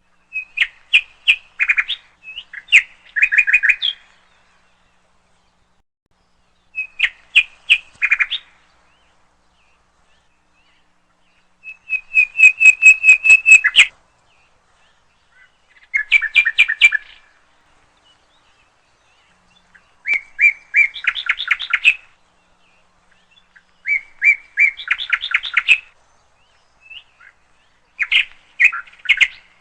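A songbird singing in short phrases of rapid repeated chirps and trills, about seven phrases each lasting one to two seconds, with pauses of several seconds between them.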